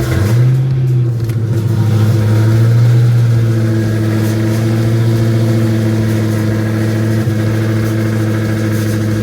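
Dodge Hellcat's supercharged 6.2-litre HEMI V8 firing up on a jump box and settling into a steady idle. Its tone sits slightly higher for about the first second and a half, then holds even.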